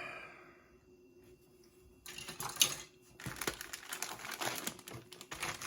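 Plastic model-kit parts and their bags being handled: a run of light clicks, rattles and crinkling that starts about two seconds in.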